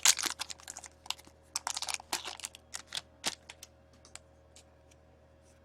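Trading cards from a freshly opened hockey pack being handled and flicked through: a quick run of small clicks and taps as the cards slide against each other. The clicks thin out after about three seconds and stop about four seconds in.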